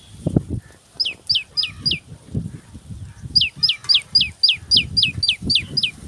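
A bird calling in quick series of clear whistled notes, each sliding downward: four notes about a second in, then a longer run of about ten at roughly four a second. The uploader takes the bird for a wagtail. Irregular low thuds run underneath.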